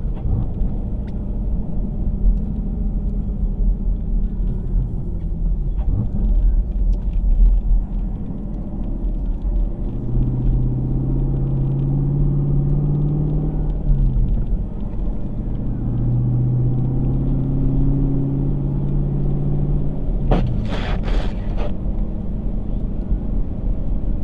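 Vehicle driving, heard through a dash camera: a steady low road rumble, with two long steady low tones of about four seconds each that glide down as they stop, and a brief cluster of sharp knocks about twenty seconds in.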